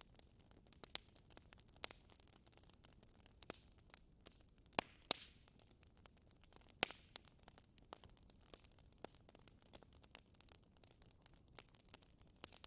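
Wood fire crackling: scattered, irregular sharp pops and snaps over a faint hiss, the loudest few near the middle.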